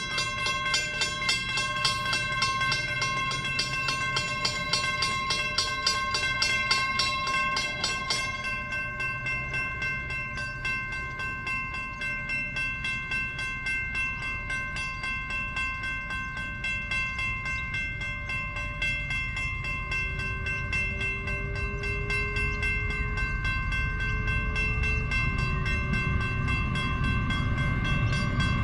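A steady, high, fast-pulsing buzz runs throughout. The low rumble of an approaching diesel train builds and grows louder over the last few seconds.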